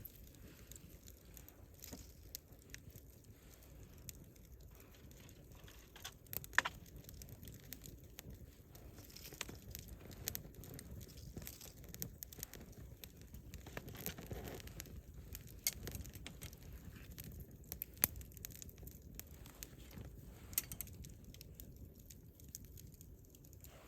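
Wood campfire burning, with irregular crackles and pops over a soft low rumble of the flames; a few sharper pops stand out.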